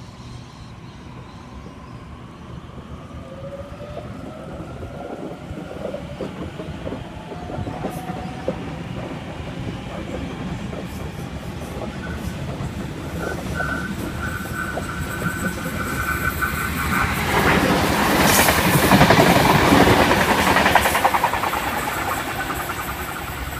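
Waratah electric train pulling out of the station, its traction motors whining up in pitch over the first several seconds. Then a train passes close by with wheels clattering over the rail joints, loudest about three-quarters of the way through.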